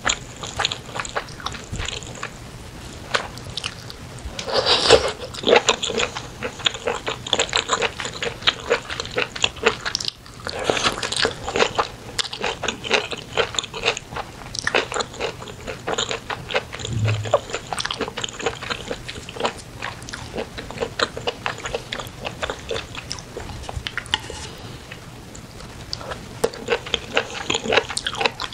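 Close-miked eating sounds: wet chewing and lip-smacking of spicy chicken in red sauce, a dense run of quick clicks, with louder bites about five and eleven seconds in.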